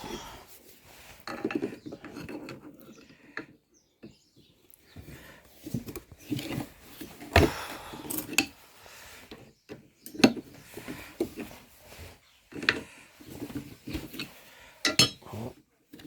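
Adjustable spanner and old cast pipe vice parts clanking, knocking and scraping irregularly as a seized nut is strained at, with sharp metal knocks about seven, ten and fifteen seconds in.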